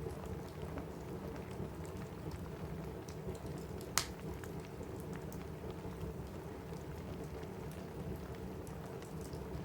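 Steady rain on a cabin roof mixed with a crackling wood fire in a fireplace. Small pops come through the rain, with one sharp crackle about four seconds in.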